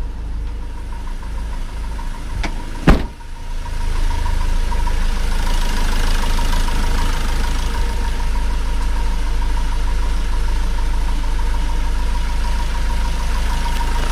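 Peugeot van's engine running steadily with its newly fitted turbo, a steady low rumble with a faint whine. A sharp knock about three seconds in, after which the running gets louder and hissier.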